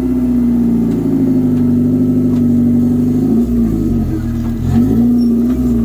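Suzuki 4WD's engine revving hard and held at steady high revs, dropping off about three seconds in, then revving up again briefly before easing off near the end.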